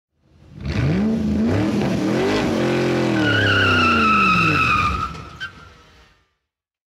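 Intro sound effect of a car engine revving, its pitch climbing then sinking slowly, with a high tyre squeal over the middle; it fades out near the end.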